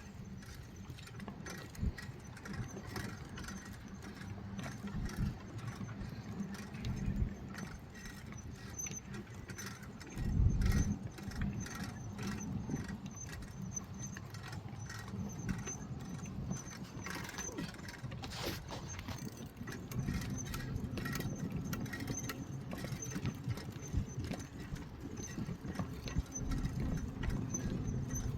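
Bicycle riding along a path: a steady low rumble with frequent irregular rattling clicks, and a louder low burst about ten seconds in.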